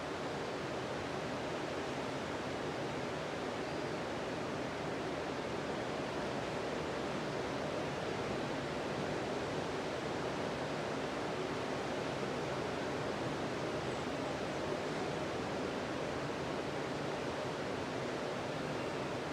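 Ocean surf on a sandy beach: a steady wash of breaking waves, with no single crash standing out.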